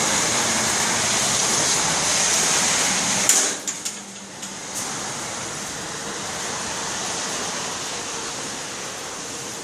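Steady hiss of falling rain. A sharp knock and a few clicks come about three and a half seconds in, and after them the rain is quieter.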